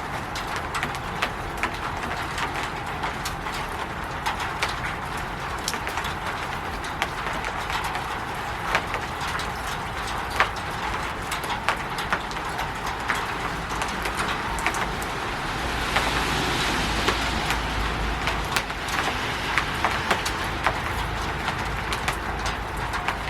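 Rain falling on a roof: a steady hiss dotted with many sharp ticks of individual drops striking. About two-thirds of the way through it swells louder for a few seconds, with a low rumble underneath.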